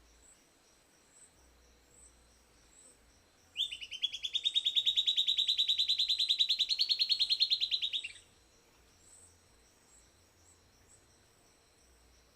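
Silvered antbird (Sclateria naevia) singing one loud, fast trill of about ten notes a second, lasting some four seconds and rising slightly in pitch. A faint steady insect chorus runs underneath.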